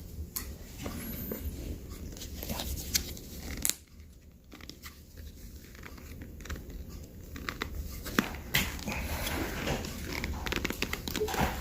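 Scattered small clicks and short rustling handling noises over a steady low hum.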